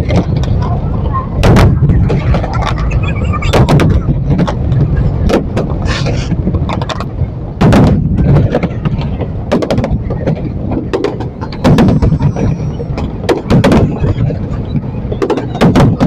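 Aerial fireworks shells bursting in an irregular string of loud booms, about one or two a second, over a continuous low rumble from the barrage.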